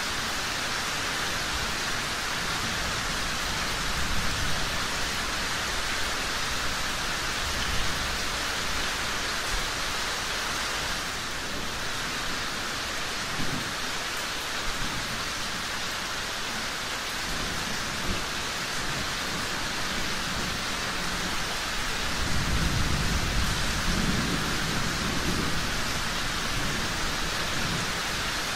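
Steady rain falling, with low rolls of thunder several times, the longest and loudest about three-quarters of the way through.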